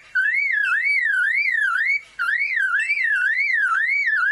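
Superb lyrebird mimicking a car alarm: a loud warbling siren-like tone that rises and falls about twice a second, with a short break about two seconds in.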